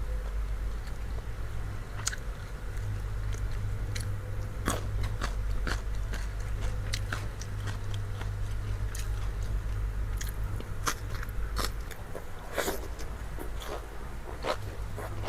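A person biting and chewing food close to the microphone: many sharp crunches and mouth clicks at an irregular pace.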